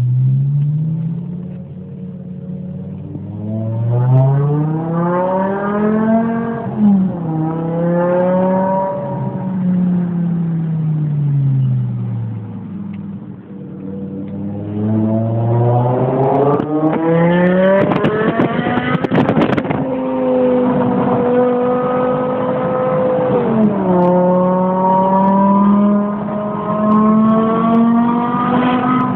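BMW E60 M5's V10 engine through an Eisenmann Race exhaust, revving up and down in several slow sweeps and then held at a higher, steady pitch, with a dip about twenty-four seconds in. A short spell of sharp crackles comes about eighteen seconds in.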